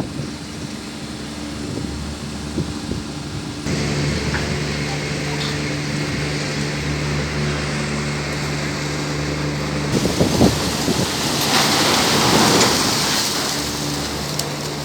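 Diesel engine running steadily, its sound shifting abruptly twice. A loud rushing hiss swells over it for a couple of seconds about two-thirds of the way through.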